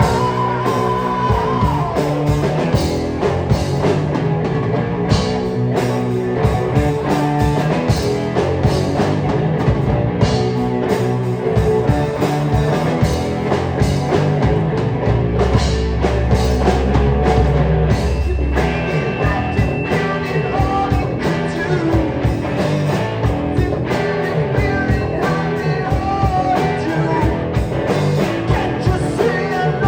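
Live rock band playing with electric guitar and drums, a steady driving beat.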